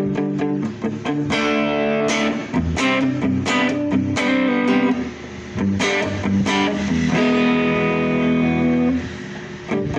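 Electric guitar played through a Mosky DTC multi-effects pedal. Quick picked notes give way about a second in to struck chords that ring out, with brief lulls about halfway through and near the end.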